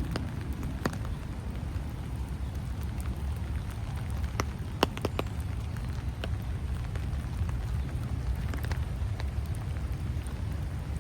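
Light rain and water drops falling, with scattered sharp drips of single drops, the loudest about five seconds in, over a steady low rumble.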